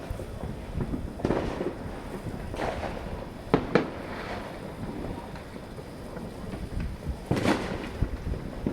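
Fireworks going off: several booms with echoing tails, two sharp cracks in quick succession about three and a half seconds in, and another strong boom near the end.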